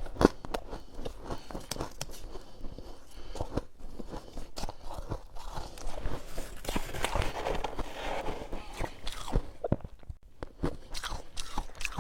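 Close-up eating of soft freezer frost: biting and chewing powdery snow ice, a run of soft crunches and crackles.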